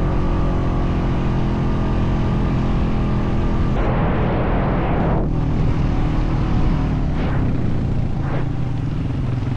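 ATV engine running steadily under load. About four seconds in the sound changes abruptly to a rougher, noisier engine note with a brief rush of noise.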